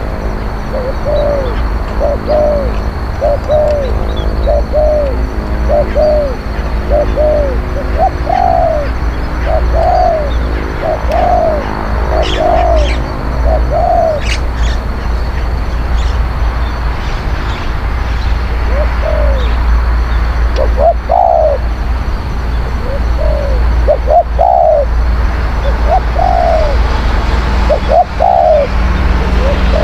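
Spotted doves cooing: a long series of short, arched coo notes, about two a second, pausing for a few seconds midway and then resuming. A steady low rumble runs underneath.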